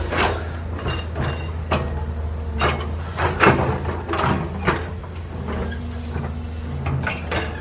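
Heavy excavator's diesel engine running steadily, with a series of irregular metallic clanks and scrapes over it.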